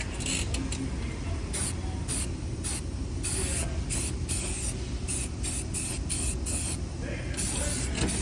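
Spray can of primer hissing in short bursts, about two a second, over a steady low rumble.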